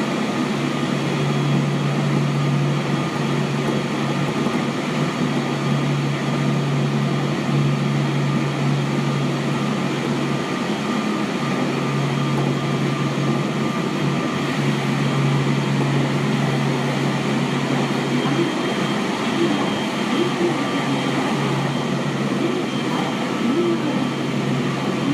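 Seibu 6000 series commuter train with Hitachi GTO VVVF equipment running at speed, heard from inside the car: a steady hum and rolling noise that hold at one pitch.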